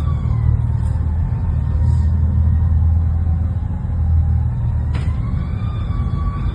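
Motor vehicle engine running: a deep, steady rumble with a faint whine that dips and rises slowly in pitch. There is a sharp click about five seconds in.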